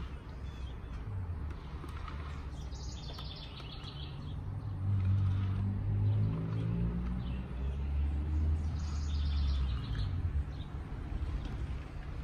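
A small bird's short, high trill of quickly repeated notes, heard twice about six seconds apart, over a low motor rumble that grows louder and rises in pitch in the middle.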